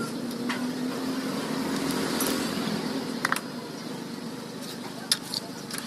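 A steady mechanical hum that swells about two seconds in and eases off, with a few sharp clicks scattered through it.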